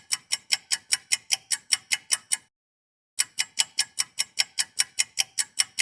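Rapid, even clock-like ticking, about seven ticks a second, in two runs with a short dead-silent break between them. It is a ticking sound effect of the kind used to mark time passing.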